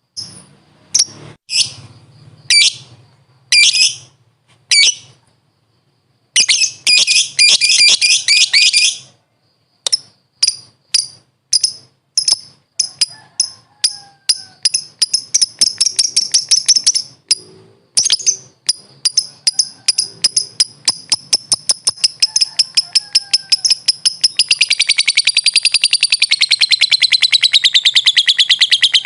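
Lovebird calling: a few sharp separate shrieks, a dense burst of chatter, then a run of quick clipped chirps that speeds up and merges near the end into a continuous warbling trill.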